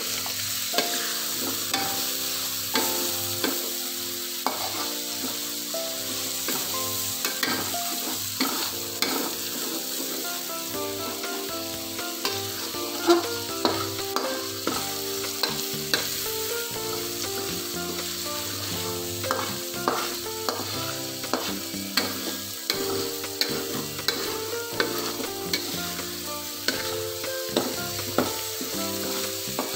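Ground spice paste with lemongrass, lime leaves and bay leaves sizzling in oil in an aluminium wok, stirred and scraped with a metal spatula, with frequent clicks of the spatula against the pan.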